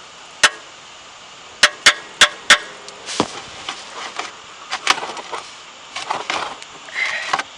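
Sharp metal strikes, five in the first two and a half seconds, then scraping and lighter clinks as a knife blade is driven in and worked to pry a stuck oil pan off the engine.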